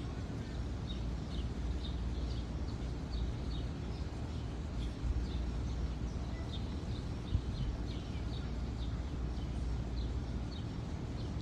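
Small birds chirping over and over against a steady low outdoor rumble, with one brief knock about seven seconds in.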